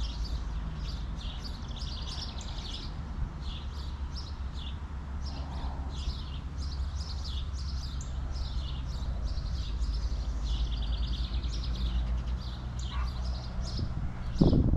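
Small birds chirping rapidly and continuously, with a steady low rumble underneath. A short, louder, lower sound breaks in near the end.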